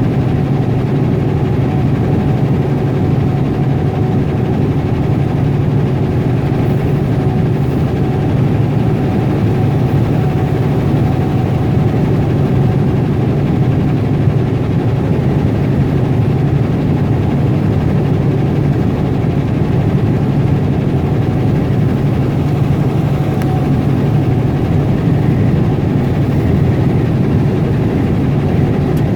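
Semi truck's diesel engine running steadily while driving, heard from inside the cab: a constant low drone with road noise, no change in pitch.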